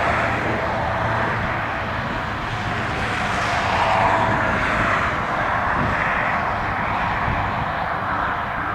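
KiwiRail DX class diesel-electric locomotive running, a steady engine drone with a whining note through it.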